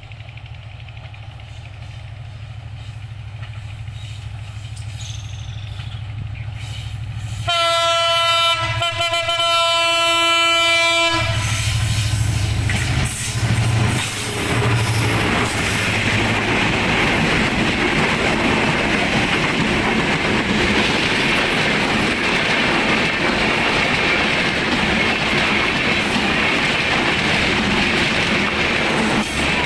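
Diesel locomotive approaching, its engine growing louder, then sounding its horn in one long blast of about three and a half seconds. The passenger train then rolls past close by, with steady wheel rumble and clatter.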